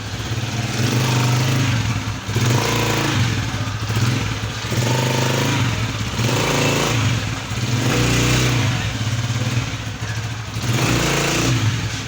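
Honda CG 125's single-cylinder four-stroke engine running, revved in repeated swells every two to three seconds. It runs without the clutch-box gear noise, with a new clutch-side gear fitted, which the mechanic says has cured it.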